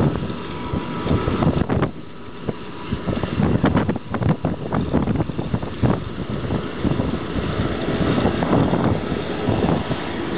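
Wind buffeting the microphone in uneven gusts aboard a moving vessel, with a low rumbling noise underneath.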